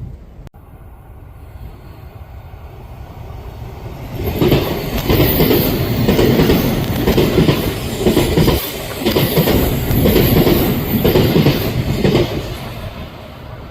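Odakyu Line electric train passing close by, its wheels clattering in a steady rhythm over the rail joints. It builds up about four seconds in and fades near the end.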